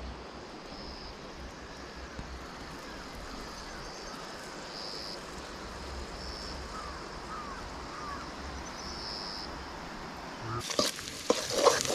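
Night outdoor ambience: insects trilling in four short high-pitched bursts over a steady rushing background. Near the end, louder clattering sounds and a voice break in.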